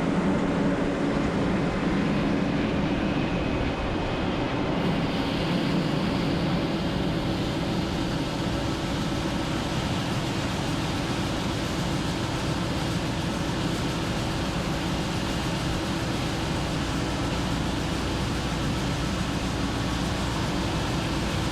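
A large vehicle's engine running steadily: a constant drone with a faint hum over a wash of noise.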